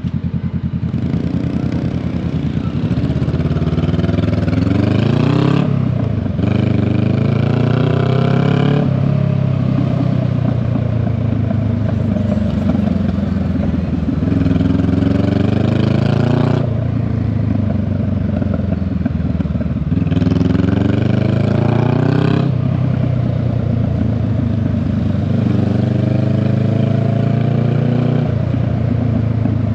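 Honda Rebel 500 parallel-twin engine through its exhaust, pulling hard: the pitch climbs, drops sharply at each upshift and climbs again, about four times, with steadier cruising in between.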